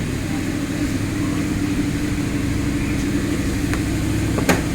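Audi R8 engine idling steadily, running again after an ECU repair cured its no-crank, no-start fault. A single sharp click sounds near the end.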